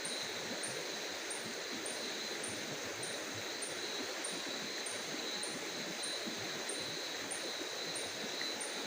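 Night insects calling: a very high, regular chirp about twice a second over a steady high buzz, with a faint hiss beneath.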